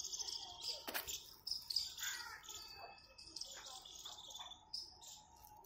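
Small birds chirping, many short high calls one after another, with one sharp click about a second in.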